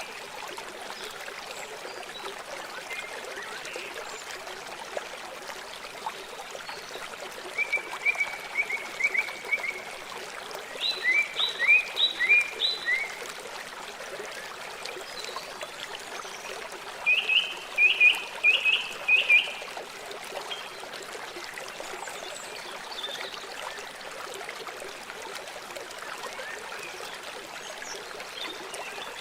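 River water flowing steadily, with three short bouts of rapid chirping calls from an animal over it.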